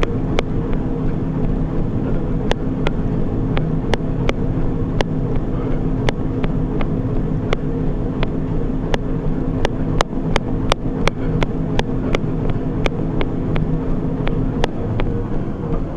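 Treadmill running under a runner: a steady motor and belt hum with sharp footfall taps, about two a second.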